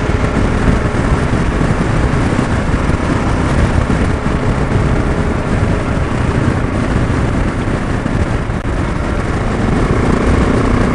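A motorcycle under way: steady engine and wind noise.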